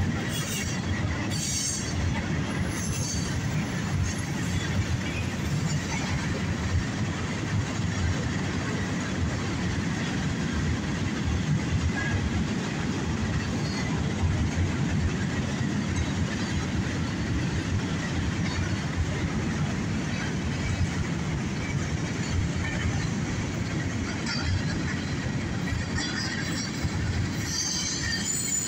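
Freight train cars rolling steadily past, a continuous rumble and clatter of wheels on rail, with brief high wheel squeals near the start and again near the end.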